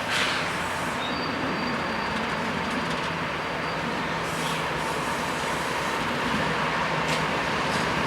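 Union Pacific freight train rolling past, its steel wheels making a steady rumble on the rails. A thin, high wheel squeal sounds for a few seconds about a second in, and a few sharp clicks come near the end.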